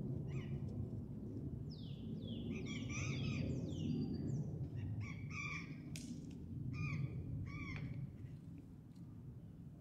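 Birds calling repeatedly: a run of short, harsh calls, some falling in pitch, others in quick pairs, over a steady low background rumble.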